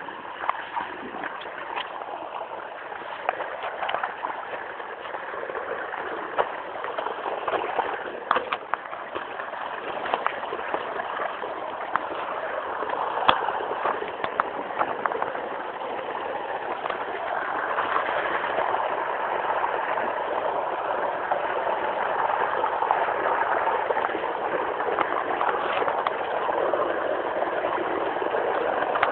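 Steady rain with scattered sharp taps and drips, growing louder about halfway through.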